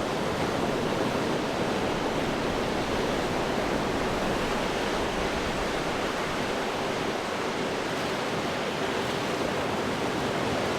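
Ocean surf washing steadily against rocks, a continuous rushing wash with no single wave standing out.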